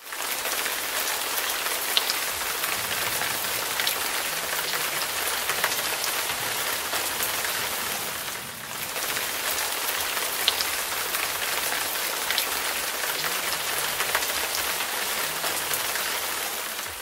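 Steady rain pattering, with occasional sharper drop hits standing out; it fades out near the end.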